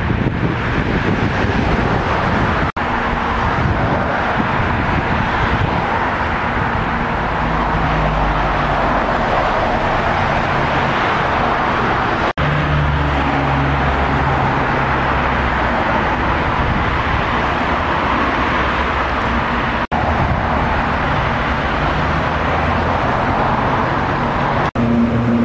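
A motor vehicle running steadily, a constant engine hum under broad rushing road or wind noise, broken by a few abrupt cuts.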